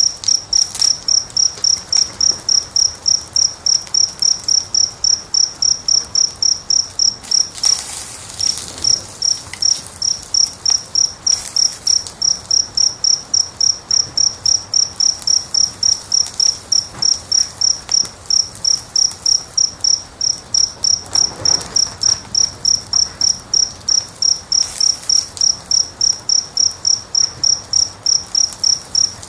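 A cricket chirping in a fast, very regular rhythm, about three high-pitched chirps a second, with a short pause about eight seconds in. Faint crackling and hiss of a wood fire sit underneath.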